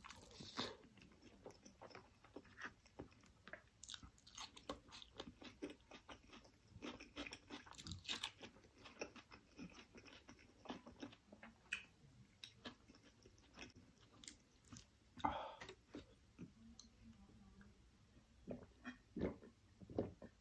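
Close, quiet chewing and lip-smacking of a person eating curried rice and chicken by hand, a steady run of small wet clicks, with one louder mouth sound about fifteen seconds in.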